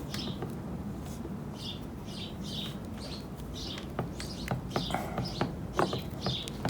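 A small bird chirping over and over, short falling chirps about twice a second, while light clicks and taps of small parts and screws being handled come in during the second half.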